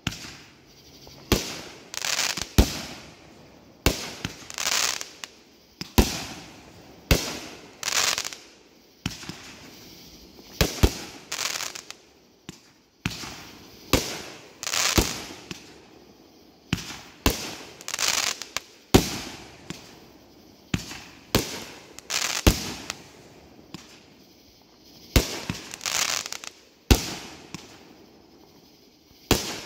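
Consumer aerial fireworks going off in quick succession, about one shot every second or so, each a sharp bang followed by a hissing crackle that trails off.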